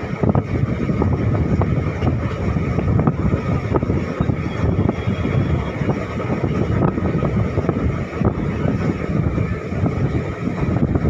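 Passenger train running at speed, heard from an open coach doorway: a steady low rumble of wheels on the rails with scattered sharp clicks and clatter, and wind buffeting the microphone.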